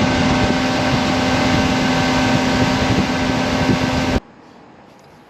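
Boat motor running steadily under way, a steady hum over rushing noise; it cuts off abruptly about four seconds in.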